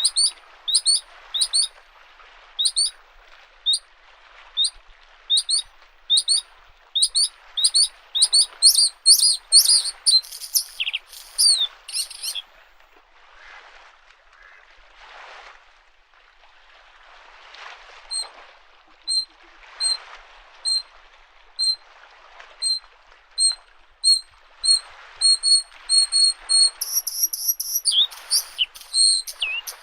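Bluethroat singing: a run of sharp repeated rising notes that speeds up, then breaks off, and after a pause of several seconds a second run of short notes speeds up and ends in a higher buzzy phrase near the end. Small lake waves lap the shore in soft washes underneath.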